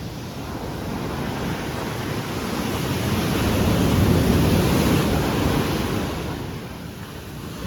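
Rough, choppy sea surf washing onto the beach. A wave surge swells to a peak about halfway through and then eases off, with wind rumbling on the microphone.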